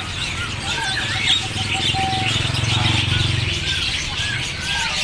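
Many caged songbirds chirping and calling together, short arching chirps repeating over a dense twittering, with a brief steady whistled note about two seconds in and a low drone underneath around the middle.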